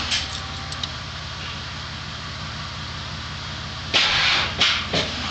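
A vehicle engine idling steadily, with three short, loud bursts of rushing noise about four to five seconds in.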